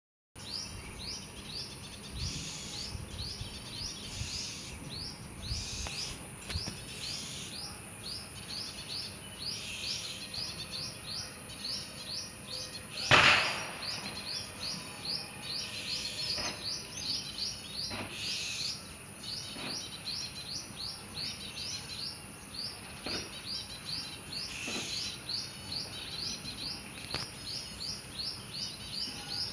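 Natural outdoor ambience: a steady high-pitched insect trill under rapid, evenly repeated chirps, about three a second, with bird calls. One loud sudden sound comes about halfway through.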